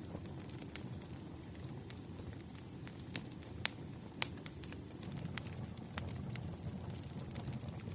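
Burning firewood crackling: irregular sharp pops and snaps, a few louder than the rest, over a steady low rumble of the fire.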